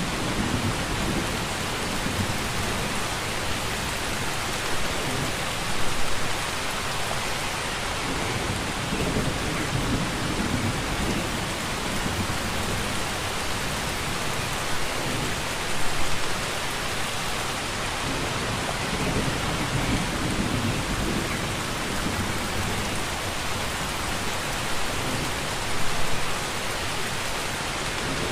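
Steady heavy rainfall, a continuous even hiss of falling rain. Three brief swells of low rumble come about ten seconds apart.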